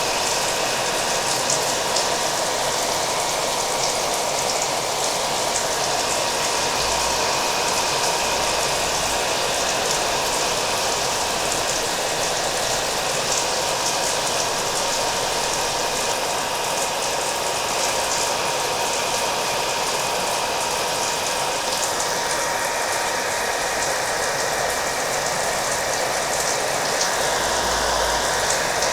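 Hair dryer running steadily with a constant whine, mixed with the sound of rain falling.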